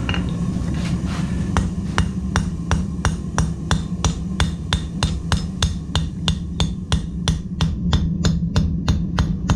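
Blacksmith's hammer striking hot steel on an anvil in a steady rhythm of about three blows a second, starting about a second and a half in.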